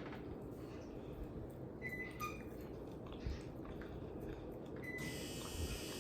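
Quiet eating sounds: a person chewing food, with a few faint small clicks and ticks.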